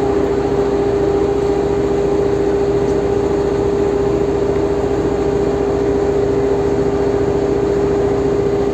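Ferry boat's engine running steadily: a constant hum over rapid low pulsing, with no change in speed.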